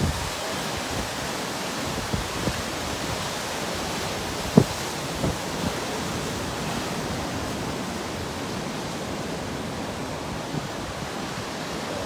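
Steady outdoor rushing noise with a few soft low thumps, the loudest about four and a half seconds in.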